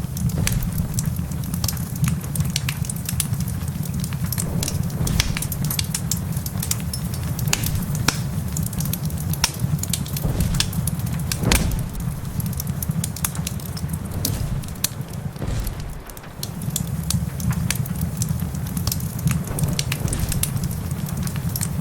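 Wood fire crackling in a fireplace, with frequent sharp pops and snaps over a steady low rumble that briefly drops away about sixteen seconds in.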